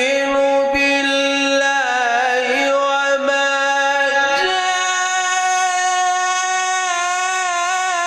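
A male Quran reciter's voice holding long, ornamented melodic notes in the chanted mujawwad style, with the pitch stepping up about halfway through.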